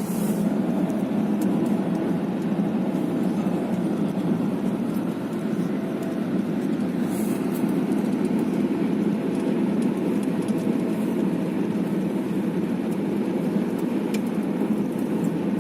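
Steady road and engine noise of a car driving along, heard from inside the cabin: an even, low drone that holds at one level throughout.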